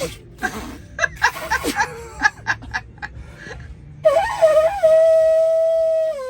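Conch shell horn being blown: a few seconds of short, broken, sputtering tries, then about four seconds in one loud held note that wavers at first, holds steady for about two seconds and sags in pitch as it ends.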